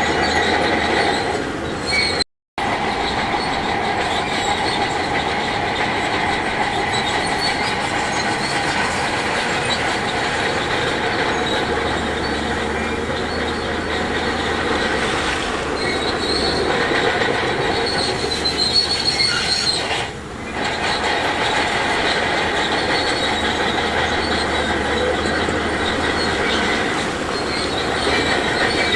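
Bulldozer crawler tracks running with a steady metallic squeal and clatter over the machine's engine. The sound cuts out completely for a moment a little over two seconds in.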